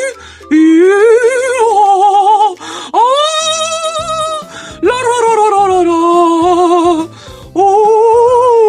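Four long, drawn-out howls, one after another, each sliding up in pitch, wavering, then falling away.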